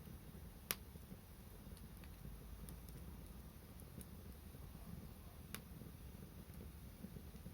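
Wood fire burning with a low, steady rumble and sparse crackles, one sharp pop just under a second in and another later on.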